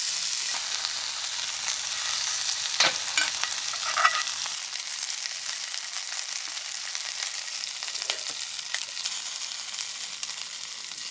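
Food sizzling as it cooks in a hot pan: a steady high hiss full of fine crackles, with two sharper clicks about three and four seconds in.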